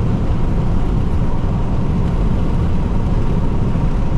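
Steady low road and engine rumble inside the cabin of a Jeep Renegade diesel driving at speed on a highway.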